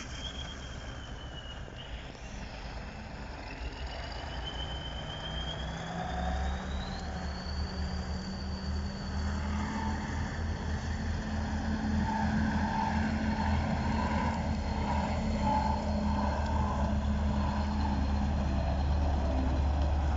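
Big Kirovets diesel tractor approaching, its engine getting steadily louder and climbing in pitch, with a thin high whine above the low rumble.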